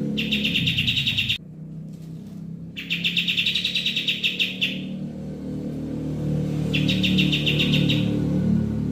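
Recorded songbird song used as a master and lure track for caged birds: three high-pitched, rapidly pulsing trills, each one to two seconds long, with the first cutting off abruptly. A lower, steady background sound runs beneath them.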